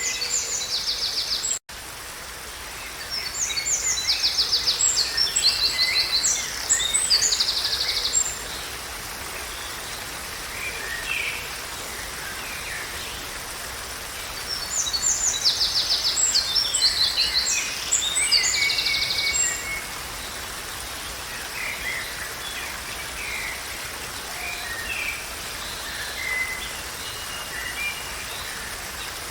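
A songbird singing long, complex phrases of fast, high trills, repeated about every twelve seconds, with softer calls in between, over a steady background hiss. The sound drops out for an instant near the start.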